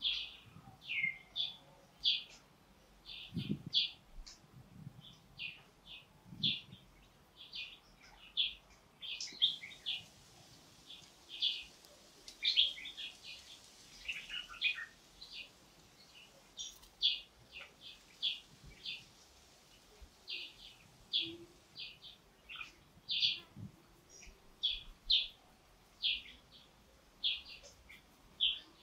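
Small birds chirping in short, high, repeated calls, about one or two a second.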